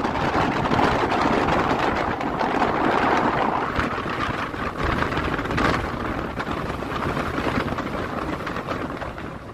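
Steady rushing wind noise buffeting the microphone, with a low rumble underneath.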